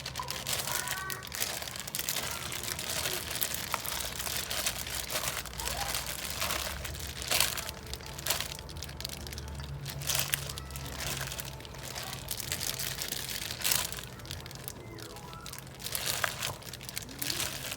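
A plastic bag crinkling and rustling over and over as salad is tossed and shaken inside it to mix.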